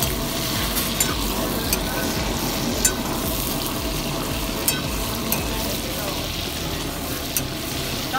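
Chicken pieces frying in hot oil in a steel wok, a steady sizzle, while a ladle stirs them and clinks sharply against the pan several times. The chicken is being browned in the oil before the handi sauce goes in.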